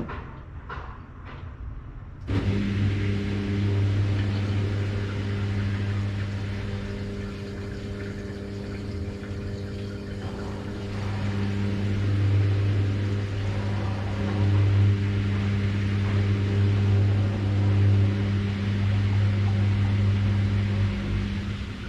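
Washing machine: a few faint knocks, then about two seconds in it starts a steady low electric hum that runs on, with a rushing noise over it.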